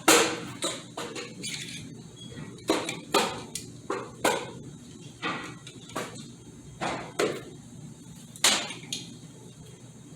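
Irregular sharp metal clicks and knocks, about a dozen, the loudest right at the start: metal tools working against the internals of a Ford AOD automatic transmission to get a snap ring loose.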